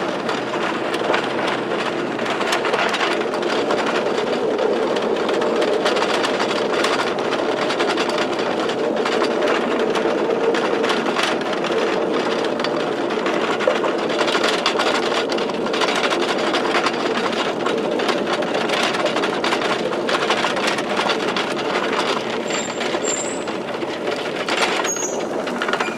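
Small narrow-gauge trolley train running, heard from on board: a steady running noise of wheels on rail with a continual light clatter of clicks, getting a little quieter near the end as it pulls into the station.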